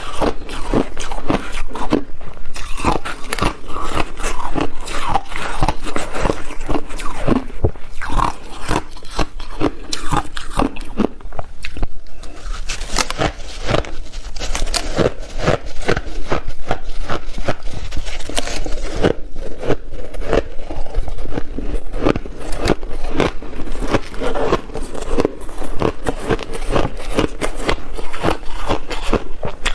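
A person biting and chewing ice: rapid, continuous crunching, several crunches a second.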